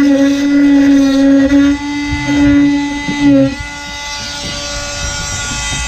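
Power tool motor running with a steady whine that dips briefly a few times, then stops about three and a half seconds in, leaving a low rumbling noise.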